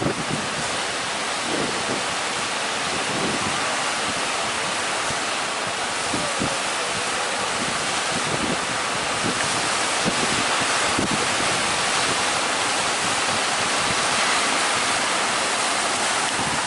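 Rough sea surf breaking continuously, a steady wash of waves in strong onshore wind, with a few brief wind buffets on the microphone.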